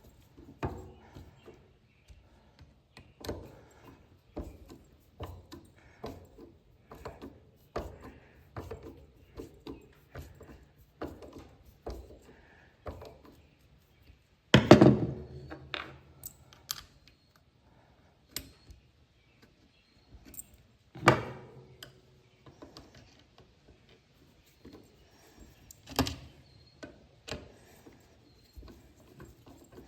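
Irregular metal clicks and knocks from handling and working a 1941 Delco shock absorber being reassembled and filled with fluid, with a few louder clanks: one about halfway through, one a few seconds later and one near the end.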